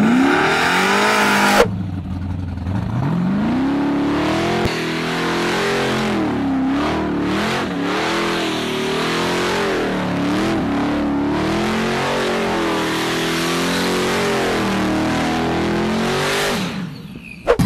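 ProCharged LS V8 in a Mazda Miata drag car accelerating hard, its pitch climbing. After a cut, a car engine revs continuously, its pitch swinging up and down for about fifteen seconds before fading out.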